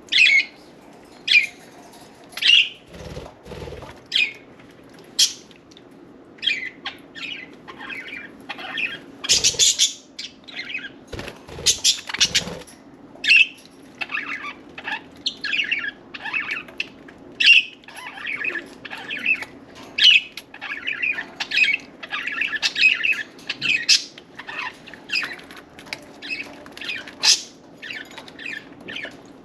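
Budgerigars chirping and chattering in a steady stream of short, high calls, with a few brief flurries of wing flapping.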